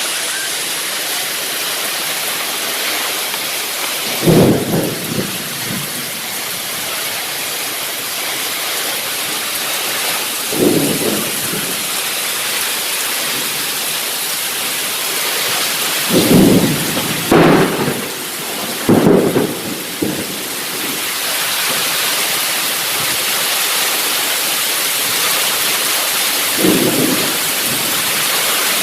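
Heavy rain pouring steadily in a thunderstorm, with several short, loud claps of thunder scattered through it.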